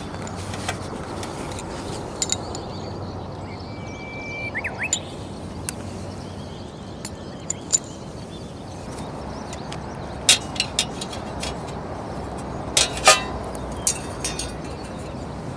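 Scattered sharp metal and glass clinks of camp cooking gear being handled, loudest about thirteen seconds in, over a steady rushing background. A short high chirp sounds about four seconds in.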